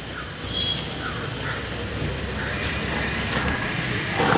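Crows cawing, a string of short calls, over a steady rumble of street traffic, with one sharp knock near the end.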